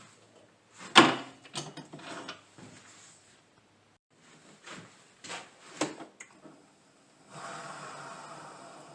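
Tools and workpieces being picked up and set down on a workbench: a handful of hard knocks and clacks. About seven seconds in, a small workshop machine starts and runs steadily.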